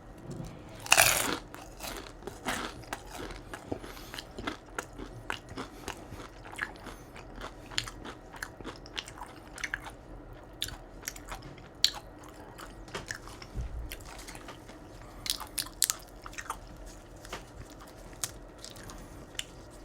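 Close-miked bite into a crispy fried crab rangoon (cream-cheese wonton): one loud crunch about a second in, then crunchy chewing with many sharp crackles.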